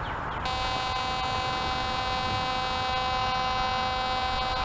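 Metal detector sounding a steady, buzzy tone that starts about half a second in and holds, over a target the detector reads as a quarter.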